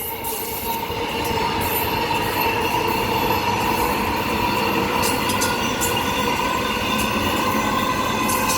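Six-car Transperth electric multiple-unit passenger train (two three-car sets) running past as it departs the station: a steady rumble of wheels on rail with a steady high whine over it.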